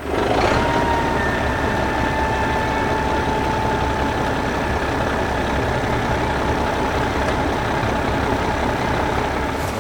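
Heavy vehicle engine sound effect running steadily with a dense rumbling noise and a faint high whine; it starts abruptly.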